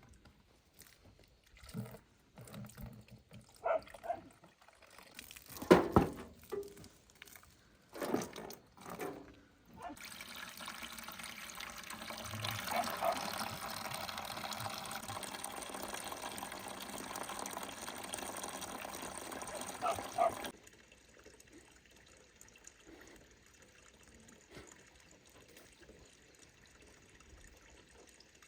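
A series of knocks and clatters, then water pouring or running steadily for about ten seconds before it cuts off suddenly.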